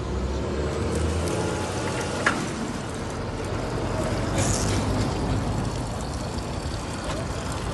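Steady outdoor traffic noise with a low vehicle rumble, strongest in the first second and a half; a single short click a little over two seconds in.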